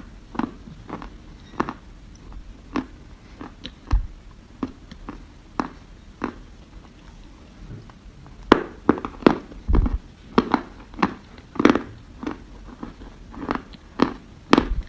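Close-up crunching bites and chewing of dry soil. Sharp, irregular crunches come one or two a second and grow louder and more frequent from about halfway through.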